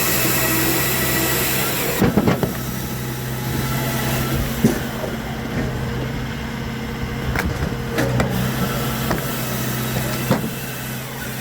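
Machinery engine running steadily under a hiss that stops abruptly about two seconds in, with scattered sharp knocks and clatters.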